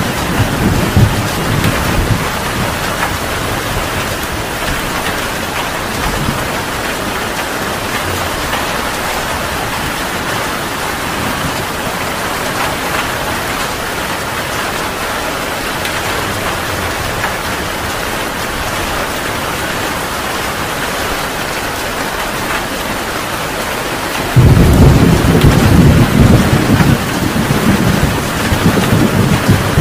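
Heavy rain falling steadily, with thunder rumbling. A rumble fades in the first couple of seconds, then a sudden loud low roll of thunder breaks in near the end.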